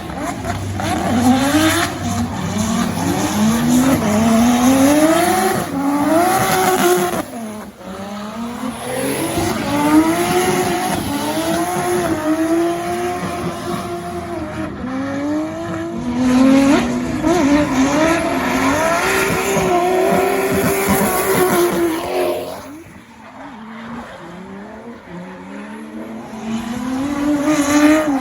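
Nissan Skyline R33's RB25DET turbocharged straight-six revving hard during drifting, its pitch climbing and falling again and again, with tyres squealing. It drops away for a few seconds near the end, then rises again.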